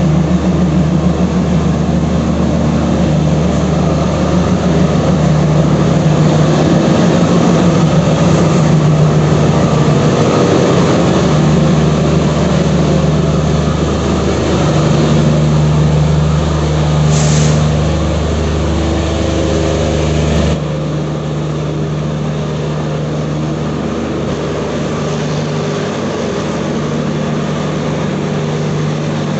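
Train running, a steady low drone with continuous rumbling rail noise. A brief hiss sounds just past halfway, and a few seconds later the deepest part of the drone cuts off suddenly.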